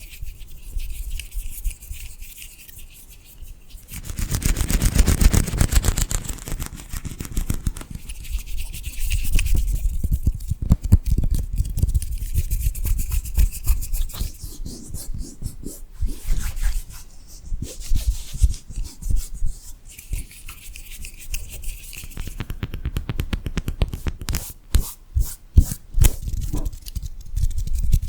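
Close-miked ASMR trigger sounds: spells of rapid scratching and brushing strokes, with a run of sharper separate taps near the end.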